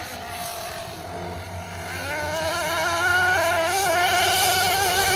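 Small nitro engine of a Team Associated MGT 8.0 RC monster truck running, getting louder about two seconds in, its pitch wavering up and down as the throttle is worked.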